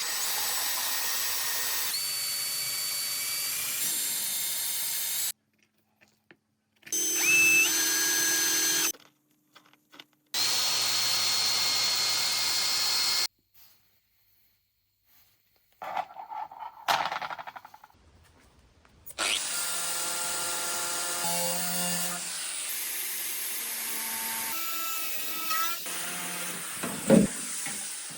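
Power tools running in several short steady stretches with a motor whine, each cut off suddenly by near silence, with a few clicks and knocks in one of the gaps.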